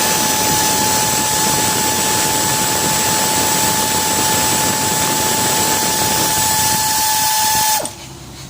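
A power tool running steadily for about eight seconds with a high, even whine over a hissing noise, then cutting off suddenly near the end. It is likely spinning out a timing chain guide bolt on a Ford 4.6 V8.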